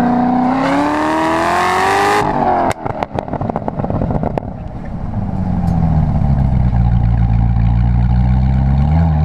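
Chevrolet Corvette V8 accelerating hard with the revs climbing, then dropping suddenly about two seconds in as the throttle is lifted, followed by a couple of seconds of crackling clicks. The engine then settles to a deep, low-revving run as the car slows, picking up slightly near the end.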